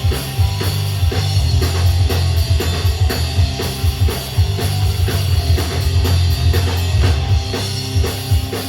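Live rock band playing an instrumental passage: electric guitar, bass and drum kit with a steady beat, no vocals.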